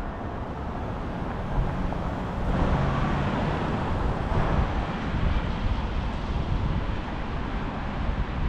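Wind rushing over an action-camera microphone while cycling, with a low rumble of street traffic. The rush swells louder about three seconds in for a second or two.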